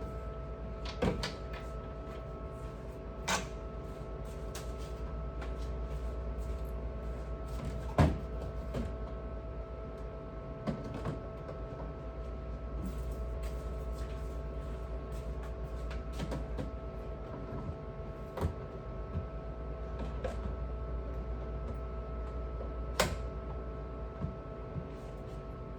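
Scattered knocks and clunks of fridge shelves, drawers or doors being handled during cleaning, the loudest about a third of the way in and again near the end. Underneath runs a steady hum with several fixed tones.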